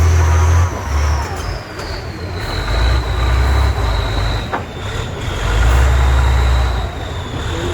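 Heavy trial truck's engine revving in repeated surges, rising and dropping off several times, with a thin high whine slowly falling in pitch.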